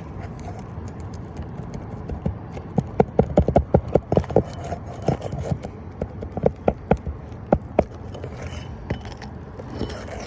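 Rapid series of sharp metal taps, a hammer striking a roof snake to work out the last nail under a shingle. The taps come several a second from about three seconds in, then thin out to single knocks before stopping near the end.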